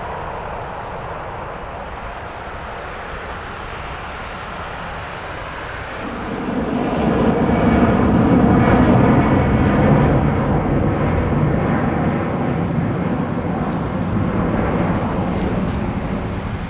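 Jet airliner's engines passing close by: a steady rumble that swells suddenly about six seconds in, peaks for a few seconds, then slowly fades.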